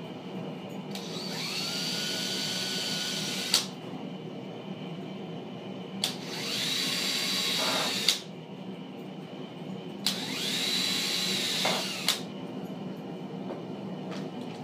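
Power drill run three times, each run a couple of seconds long: the motor whine rises quickly in pitch, holds steady, then stops with a sharp click.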